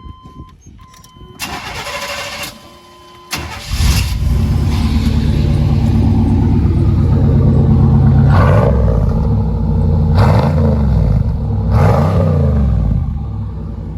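A 1988 Chevy Silverado pickup is cranked on its starter and catches about four seconds in. It then runs loud and deep through a new dual exhaust with the deepest-tone mufflers on offer, and is revved up and back down three times.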